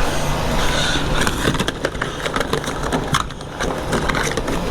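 Handling noise of someone rummaging for a small item: a string of rustles, crinkles and light clicks over a steady low rumble.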